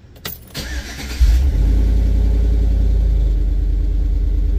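GM V8 engine cranked by the starter and catching after about a second, then settling into a steady loud idle. A couple of sharp clicks come just before the cranking.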